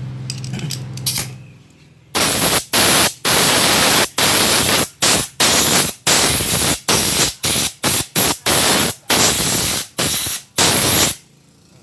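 Compressed-air blow gun fired in a rapid string of short, loud hissing blasts, starting about two seconds in, blowing spilled petrol off a motorcycle carburettor to dry it.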